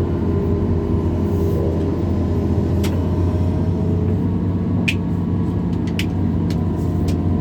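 Diesel engine of a hydraulic excavator (backhoe) running steadily under work, with a few short sharp clicks partway through.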